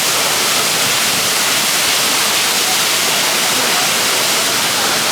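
Jeongbang Waterfall: a loud, steady rush of falling water.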